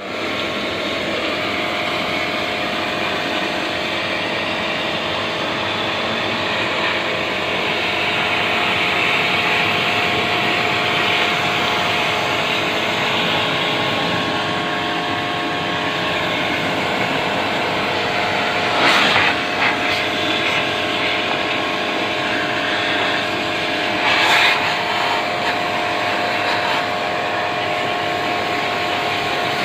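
Pressure washer running steadily, its motor whining constantly under a hissing rush of spray, with two short louder bursts of spray near the middle.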